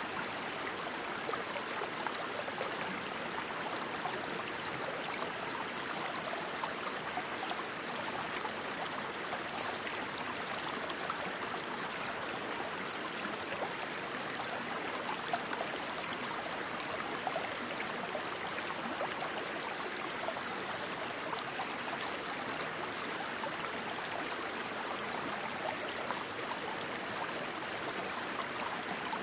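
Rushing stream water running steadily. Short high-pitched chirps come through it every second or so, with two brief rapid trills.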